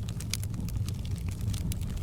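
Wood fire crackling in a fireplace: many quick, sharp snaps over a steady low rumble of the flames.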